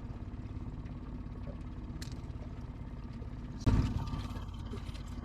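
Boat motor running steadily at low trolling speed, with one loud thump about three and a half seconds in.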